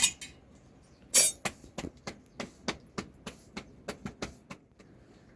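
A rapid series of sharp knocks, about three a second. A loud one comes at the start and another about a second in, and the knocks stop about four and a half seconds in.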